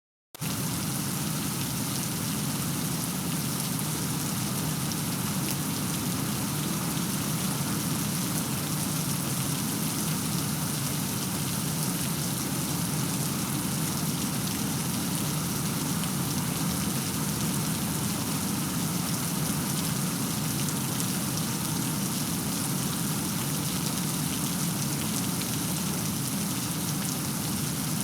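Steady heavy rain falling and pattering on surfaces, an even dense hiss that starts just after the opening instant and holds level, with no thunder heard.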